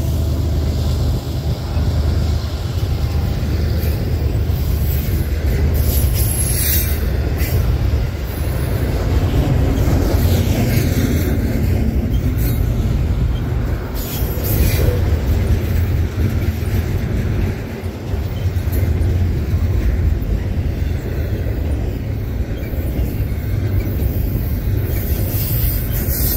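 Double-stack intermodal well cars of a Canadian National freight train rolling past: a steady deep rumble of steel wheels on rail, with brief high wheel squeals several times along the way.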